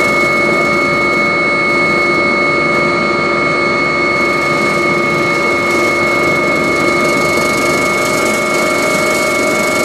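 Agusta helicopter's turbine engines and rotor running steadily: a constant whine of several held tones over a loud rushing noise.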